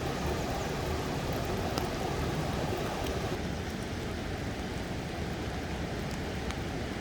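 Steady rush of flowing stream water, with a few faint ticks above it.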